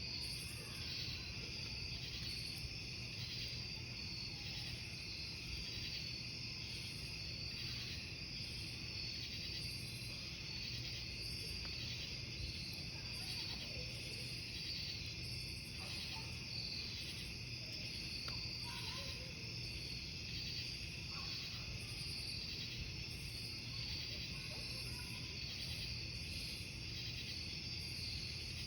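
Crickets chirping steadily in several high-pitched layers, one layer pulsing about once or twice a second, over the low, even noise of a burning wood campfire.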